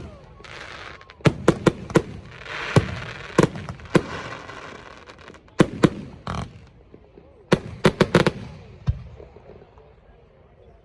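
Fireworks going off: irregular clusters of sharp bangs and pops, with spells of hissing crackle between them. The bangs thin out and the crackle dies away near the end.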